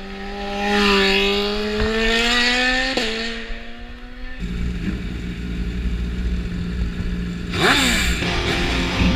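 Sportbike engine under load, its note slowly climbing for the first few seconds, then cutting abruptly to a steadier engine note. Near the end the engine revs sharply with a quick rise in pitch.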